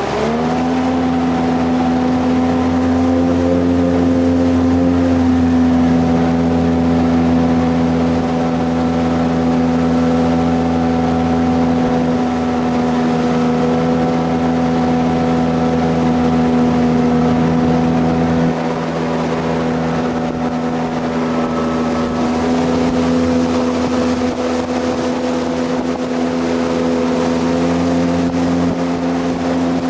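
Jet boat's inboard engine running at a steady cruising speed, a constant droning hum over the rush of water, dropping slightly in level about two-thirds of the way through.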